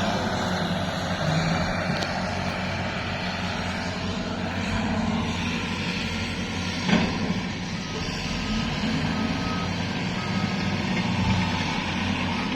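A heavy vehicle's engine running steadily, with a reversing alarm beeping about once a second from about two-thirds of the way in. A single sharp knock comes a little past halfway.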